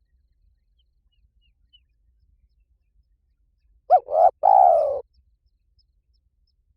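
Spotted dove cooing: a single phrase of two short coos and a longer falling final coo, about four seconds in. It is a call used as a lure to draw in wild spotted doves.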